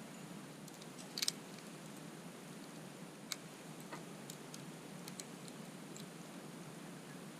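Wood campfire crackling: scattered sharp pops and snaps over a steady low hiss, with a quick cluster of louder pops just over a second in.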